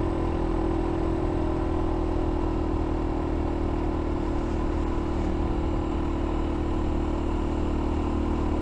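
F.B Mondial Pagani 300 motorcycle engine running at a steady speed while riding at a gentle pace, with wind and road noise.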